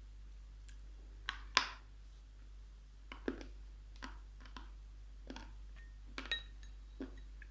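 Close-up crunching of edible chalk being bitten and chewed: about ten sharp, irregular crisp crunches, the loudest about one and a half seconds in.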